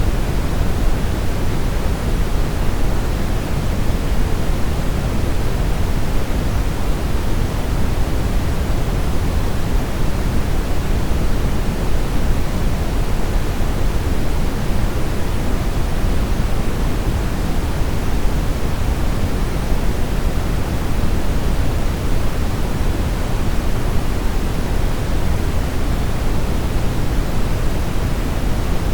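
Steady brown noise: an even, unchanging hiss weighted heavily toward the low end, like a deep rumble.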